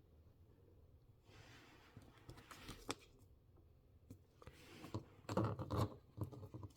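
Faint handling noise of small craft pieces: light clicks and rustles, with a louder burst of rustling and soft knocks on the table about five seconds in.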